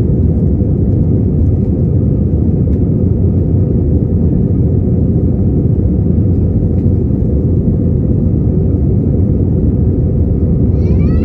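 Cabin noise of an Airbus A320 airliner under way: a steady, loud, low rumble of jet engines and airflow.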